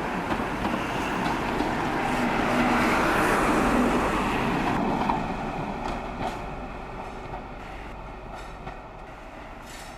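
Train running along the track, growing louder to a peak about three to four seconds in, then fading steadily away.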